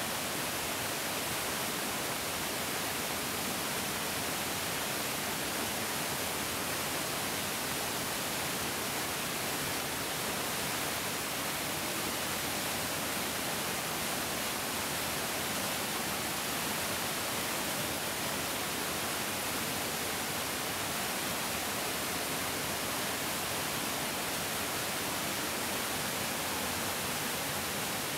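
Bigger mountain stream flowing: a steady, even rush of water that stays constant throughout.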